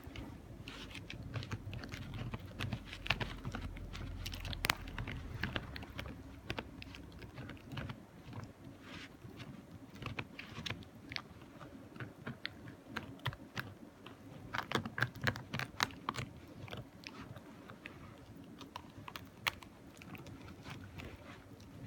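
Puppies making many small irregular clicks and taps, bunched most densely about two thirds of the way through.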